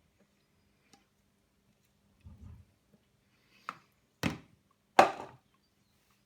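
A spoon knocking against a dish as thick custard is spooned onto a trifle: a soft thud about two seconds in, then three sharp knocks, the last the loudest.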